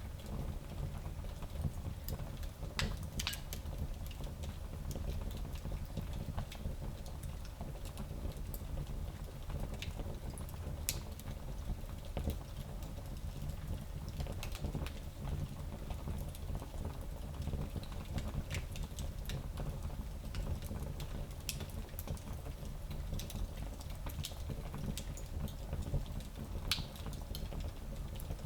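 Fire burning in a small fireplace: a steady low rumble with irregular crackles and pops, a few sharper pops standing out.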